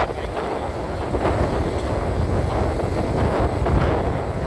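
Wind buffeting the microphone on a moving motorcycle, a steady low rumble with the bike's running and road noise beneath it.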